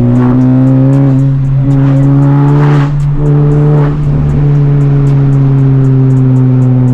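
Honda Civic Type R's turbocharged four-cylinder engine, fitted with a catless downpipe and resonator delete, drones steadily under way. Its pitch and loudness dip briefly about three and four seconds in.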